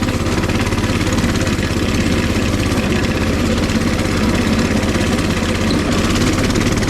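Coleman 196cc mini bike's single-cylinder four-stroke engine running at a steady speed while the bike rides along.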